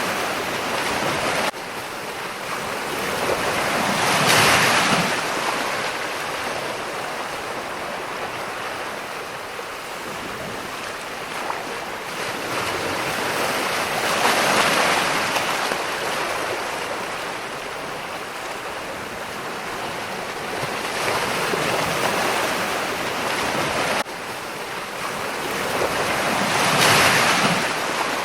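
Ocean surf: a steady wash of waves with four slow swells as waves break and run up, about every six to ten seconds. The level drops suddenly twice, once near the start and once near the end.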